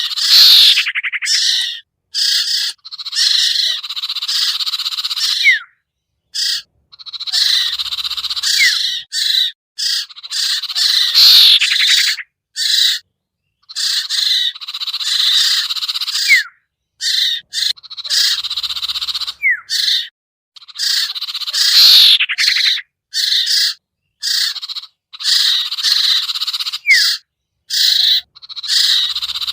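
Looped bird-lure recording of common iora (cipoh, also called sirtu/sertu) calls: rapid chirps and trills, each phrase ending in a short rising whistle. The phrases are chopped by sudden silences, and the same sequence repeats about every five to six seconds.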